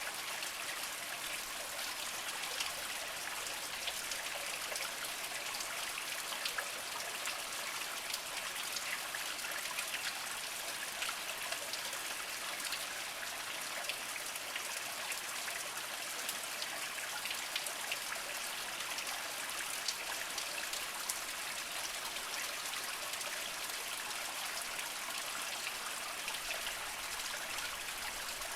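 Small mountain spring trickling steadily over mossy rocks, with many small drips and splashes through it.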